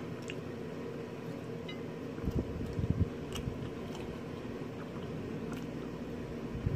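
Close-up chewing of a mouthful of salmon, loudest a little over two seconds in, with a few light clicks of a metal fork against a plate.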